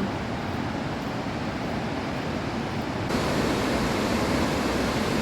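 Steady rushing of a large waterfall, Burney Falls, heard from the trail. About three seconds in it abruptly becomes louder and brighter.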